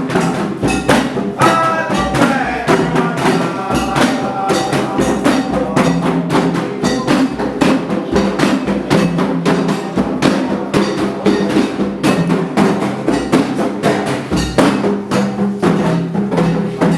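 Candomblé ceremonial music: atabaque drums and percussion play a dense, fast rhythm, with pitched melodic lines, likely singing, above the drumming.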